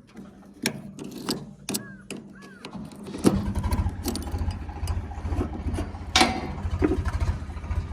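Heavy diesel engine comes in suddenly about three seconds in and runs with a loud, even chugging, under a few sharp knocks. Before it there is a faint low hum and a few clicks.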